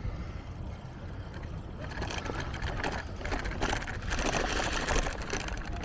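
Bicycle rattling and clattering over a bumpy road surface, starting about two seconds in, over a low steady rumble.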